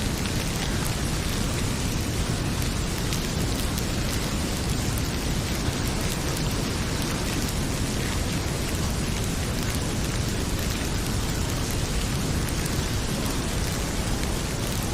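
Heavy rain pouring steadily, with the scattered snaps and pops of a crackling fireplace fire.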